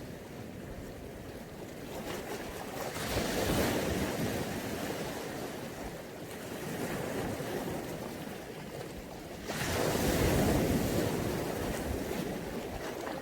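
Mediterranean waves washing onto the shore, two swells breaking a few seconds apart, the second one sudden and the louder, with some wind buffeting the microphone.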